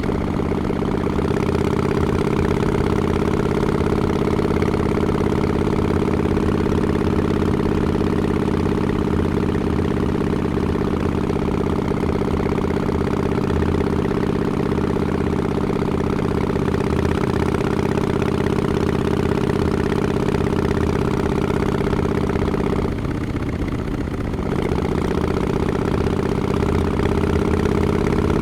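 Harley-Davidson Forty-Eight's 1200cc air-cooled V-twin running steadily through Vance & Hines Shortshots exhausts with quiet baffles. The steady note drops away briefly about 23 seconds in, then comes back slightly higher and rises gently near the end.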